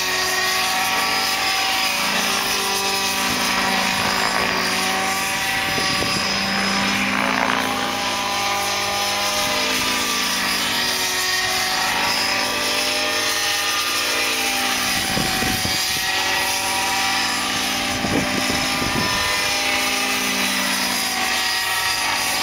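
Radio-controlled model helicopter's glow engine and rotor running in flight, its pitch drifting up and down as it is flown, with wind gusting across the microphone a few times.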